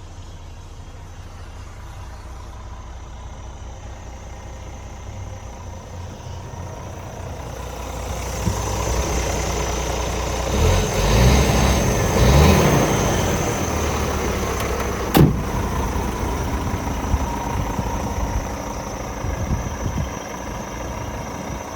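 Scania R450 truck's 13-litre straight-six diesel running, getting louder about eight seconds in with a few short surges, and one sharp click about two-thirds of the way through.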